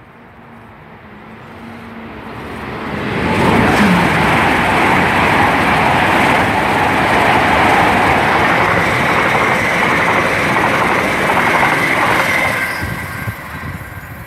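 Great Western Railway Class 800 train passing through the station at speed. The noise builds over about three seconds, stays loud as it rushes past, then fades away near the end.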